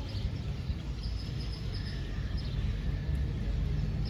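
Outdoor ambience: a steady low rumble, like wind on the microphone, with a few faint, short bird chirps.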